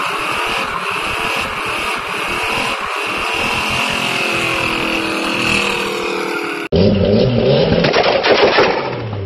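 Car engine and exhaust sound from two different clips. First comes a steady, noisy engine note whose pitch rises in the middle. Then, after an abrupt cut about two-thirds through, a louder, deeper engine runs with rapid crackling pops from the exhaust.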